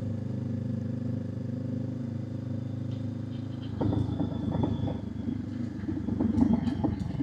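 Motorcycle engine running at a steady pace while riding. About four seconds in, the sound turns louder and uneven.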